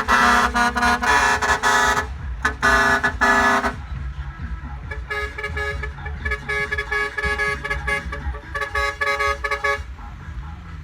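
Six-wheel trucks' air horns sounding: two loud blasts in the first four seconds, then a quieter, pulsing horn from about five seconds to near the end, over a low engine rumble.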